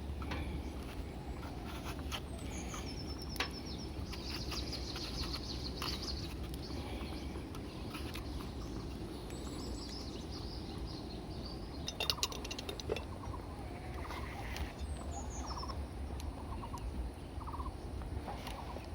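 Wild birds chirping and calling, with short falling chirp runs and little trills, over a steady low rumble. A quick rattle of clicks comes about two-thirds of the way through.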